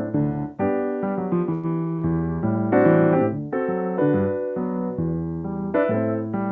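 Solo piano playing: a flowing line of chords over a moving bass, each note struck and left to ring.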